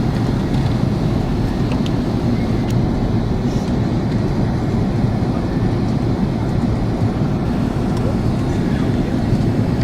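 Steady cabin noise inside an Airbus A330 airliner in flight: the even rush of engines and airflow, strongest in the low range, with a few faint ticks.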